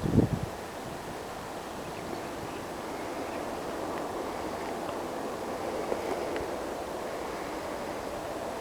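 Steady wind rushing over the microphone in a snowstorm, with a short thump right at the start.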